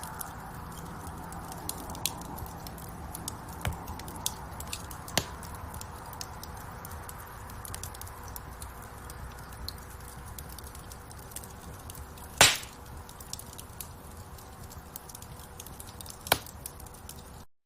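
Wood fire burning in a fireplace: a steady hiss with constant small crackles and two loud pops, one about two-thirds of the way in and one near the end. The sound cuts off abruptly just before the end.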